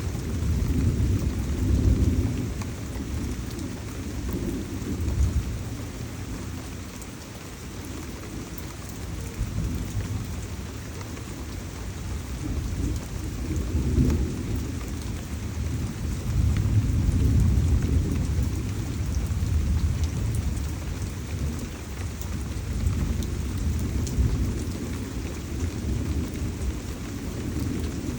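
Tropical rainstorm: steady heavy rain with deep rolling thunder that swells and fades several times, loudest a couple of seconds in, near the middle and again a few seconds later.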